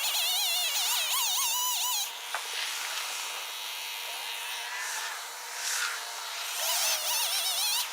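Two-stroke chainsaw cutting, its engine pitch wavering up and down as it loads in the wood. The strongest stretch runs for the first two seconds, and the saw rises again near the end.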